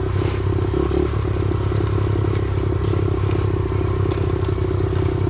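Pit bike engine running at a steady speed while being ridden, with a few light knocks over it.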